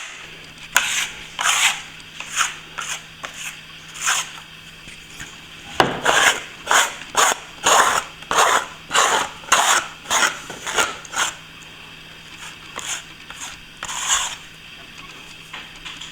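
Repeated strokes of a plastering tool scraping over firming plaster, about two a second, pausing for a moment around four to six seconds in and thinning to a few strokes near the end. A faint steady hum runs under the first six seconds.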